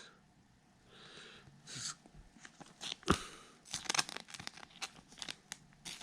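Baseball trading cards being handled and flipped through by hand: quiet rustling and quick card clicks, growing busier in the second half.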